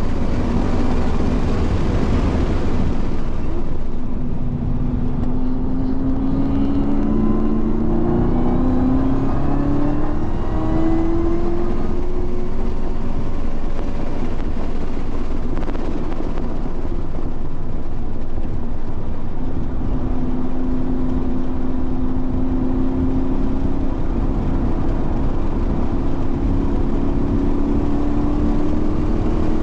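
Car engine under hard acceleration on track: its pitch climbs several times in quick succession, then rises slowly in one long pull. Heavy wind and road noise runs underneath throughout.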